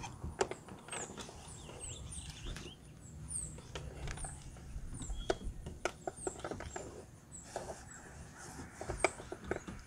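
Small birds chirping: short, high notes slipping downward, repeated many times. Scattered light clicks and taps sound among them.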